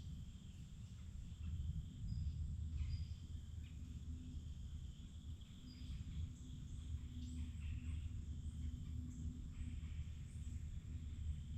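Forest ambience: small birds give short, scattered chirps and a few brief whistles over a steady high insect drone and a low, even rumble.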